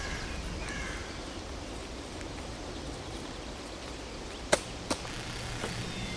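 Steady outdoor background noise, broken about two-thirds of the way through by two sharp clicks less than half a second apart. A faint low hum follows.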